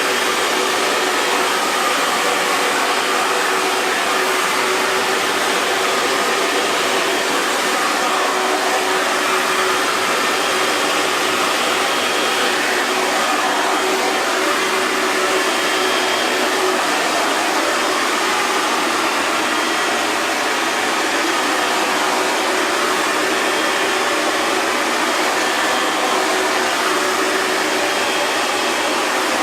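Hair dryer running steadily: a continuous, even rush of blown air over the whine of its motor, with no change in speed.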